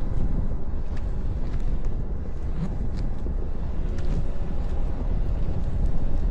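Vehicle driving, a steady low road rumble, with wind buffeting the microphone and a few faint clicks.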